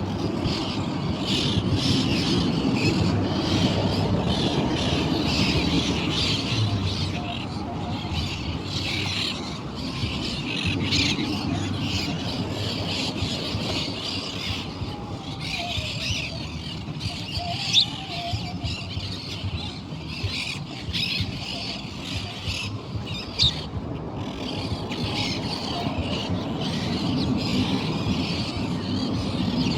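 Many birds calling and squawking at once in continuous chatter, over a low rumbling noise. Two sharp, louder calls stand out past the middle.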